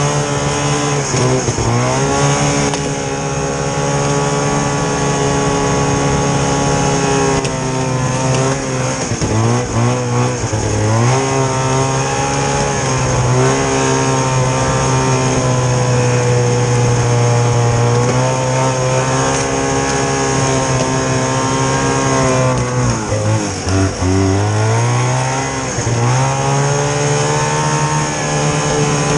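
Vintage snowmobile's small two-stroke engine running under way, its pitch steady for long stretches and dropping, then climbing back with the throttle, about a second in, around ten seconds in and again near 24 seconds.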